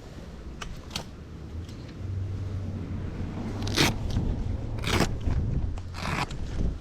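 Handling noise: a couple of light clicks, then three short scraping sounds about a second apart, over a low steady hum.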